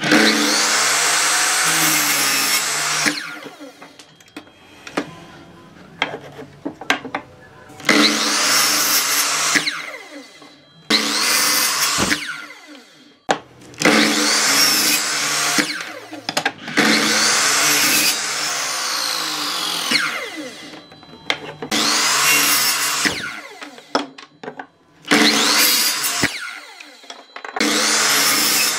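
A handheld power tool working wood, run in repeated bursts of one to three seconds with short pauses between.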